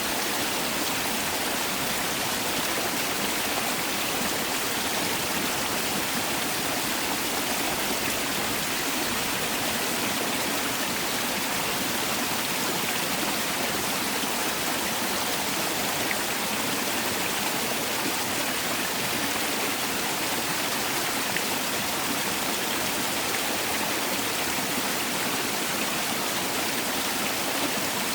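Mountain valley stream flowing over rocks, a steady, unbroken rush of water.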